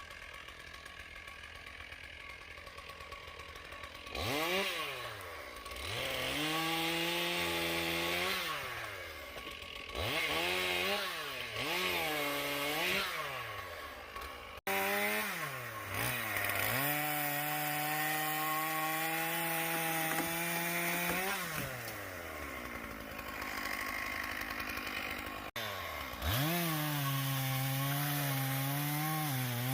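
Two-stroke chainsaw cutting up a downed oak: it idles, revs up and holds high under load through the cuts, then falls back to idle, with several quick revs in between. The sound changes abruptly twice.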